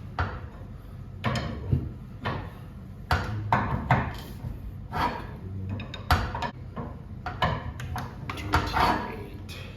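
Steel winding bars clinking and knocking in the winding cone of a garage door torsion spring as tension is wound onto the spring: a run of irregular metal knocks, some briefly ringing.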